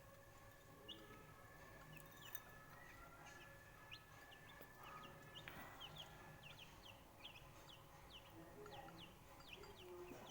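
Aseel chicks peeping faintly: many short, high, falling peeps, coming thicker in the second half, over a faint steady hum.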